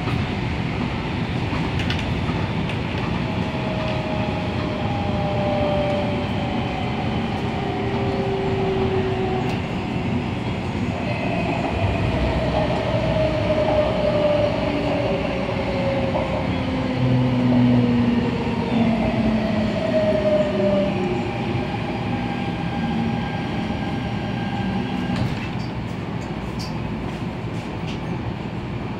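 Inside the cabin of an MTR Tung Chung Line A-Train EMU running along the line. Continuous wheel and rail noise carries several whining tones that glide down in pitch, with a few sharp clicks near the end.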